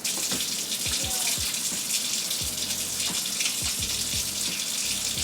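Kitchen faucet running steadily into a sink, turned on right at the start.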